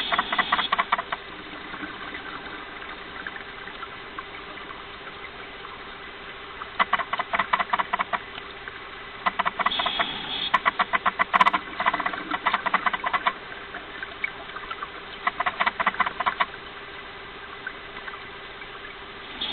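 Underwater ambience: bursts of rapid crackling bubbles every few seconds, over a steady faint hum.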